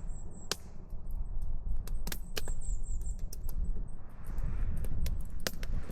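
Wood campfire crackling, with sharp, irregular pops and snaps, several a second, over a low steady rumble.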